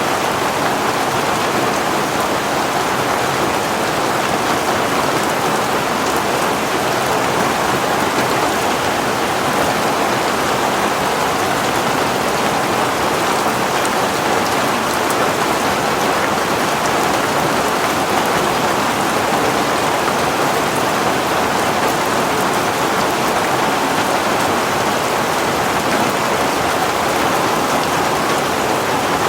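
Heavy rain falling steadily, an even wash of noise.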